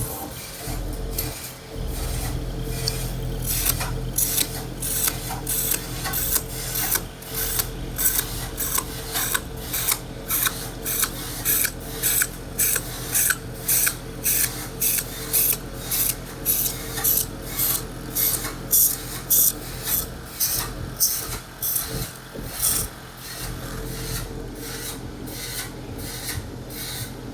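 Rhythmic rasping strokes, about two a second, starting a few seconds in and fading out near the end, over a steady low machine hum.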